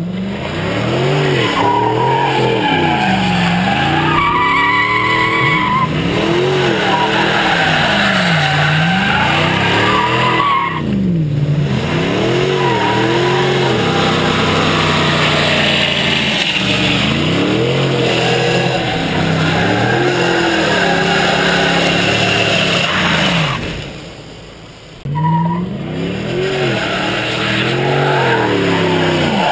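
Chevy 1500 pickup engine revving up and falling back over and over, every two to three seconds, while its tyres squeal and skid through drifts. The engine drops off briefly near the end before picking up again.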